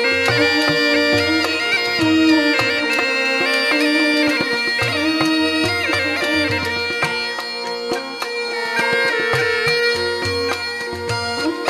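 Rajasthani folk instrumental music: a murli (been, the double gourd pipe) playing a melody over its own steady drone, with a regular drum beat underneath.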